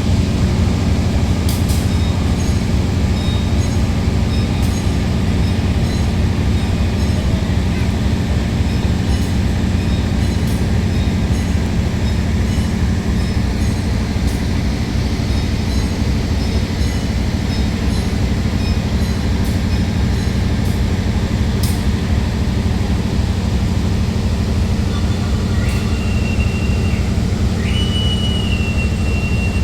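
Diesel locomotive running with a steady low rumble, a few clicks over it. Near the end a horn sounds twice, the second blast held.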